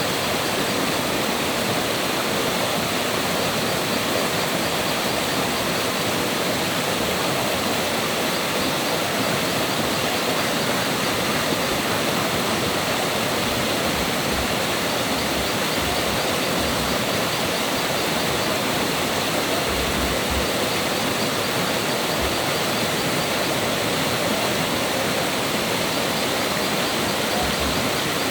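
Fast-flowing stream water rushing, a steady, unbroken rush.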